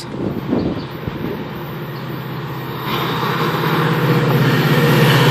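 GO Transit diesel locomotive hauling bilevel coaches approaches at speed without stopping. A steady low engine drone sets in with rising wheel-on-rail noise, growing louder as the train nears.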